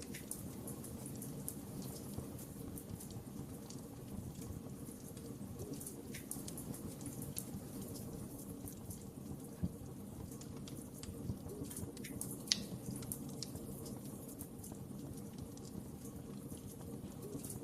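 Wood fire crackling, with scattered small pops and ticks over a steady low rumble of the flames, and a couple of sharper pops around the middle.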